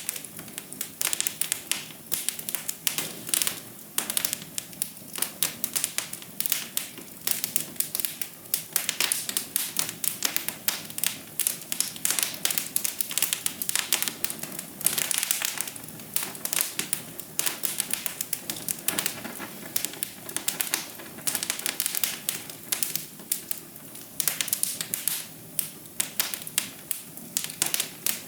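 Wood fire in a fireplace crackling, with a dense, irregular run of snaps and pops over a soft steady hiss of burning.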